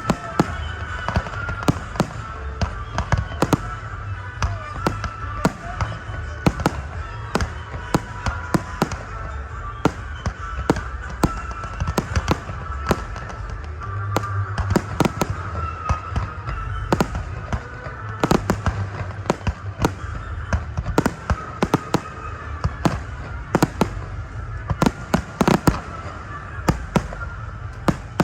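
Fireworks display: a dense, continuous run of sharp bangs and crackles, several a second, over a steady low rumble.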